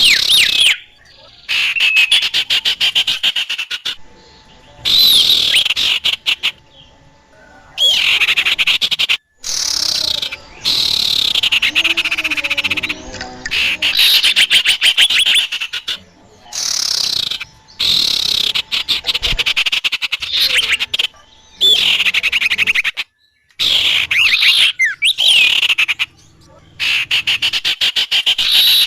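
A recorded bird-lure track of small birds' calls: fast stuttering chatter with sharp chirps and quick pitch sweeps. It comes in bursts of a second or several, broken by short abrupt silences.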